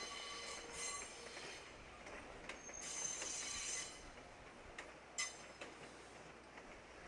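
Electric train moving slowly through depot track, its wheels squealing high-pitched in two spells, with a few sharp metallic clicks from the rails.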